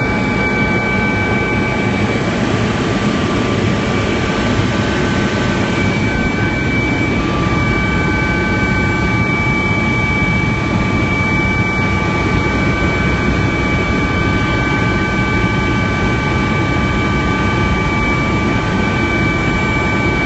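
Helicopter in flight heard from inside the cabin: a loud, steady drone of the turbine engine and rotors, with a few steady high whining tones over it.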